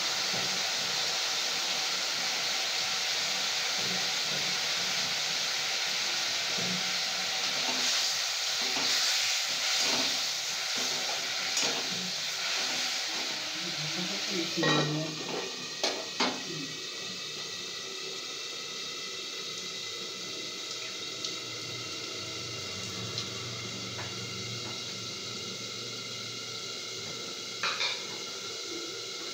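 Flat beans in sour curd sizzling in a steel wok, with a spatula stirring and scraping against the metal. About halfway there are a few loud metal clanks, after which the sizzle drops to a quieter steady hiss; two light metal clinks come near the end.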